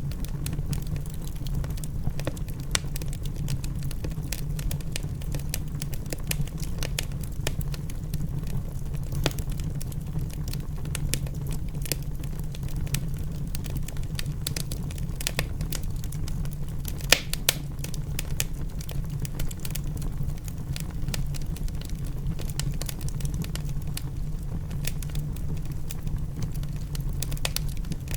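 Wood fire crackling in a fireplace, with irregular sharp pops over a steady low rumble. A louder pair of pops comes about 17 seconds in.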